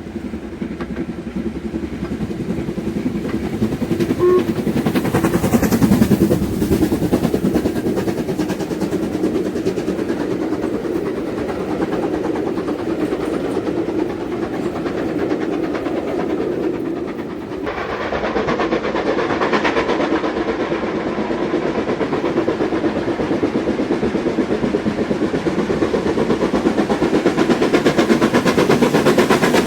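Steam train running: an LMS Black 5 steam locomotive working, with its carriages clattering over the rail joints. The sound changes abruptly about two-thirds of the way through, turning brighter and sharper.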